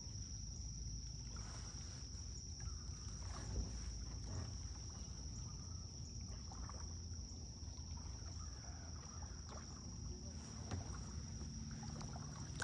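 Kayak paddle dipping into river water, giving soft, faint splashes every second or two over a low steady rumble.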